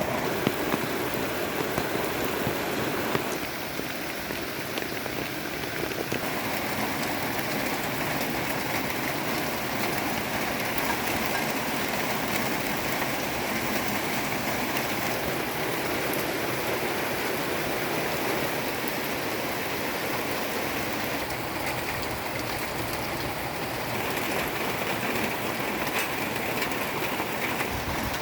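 Heavy rain pouring down steadily, an even hiss with scattered ticks of drops.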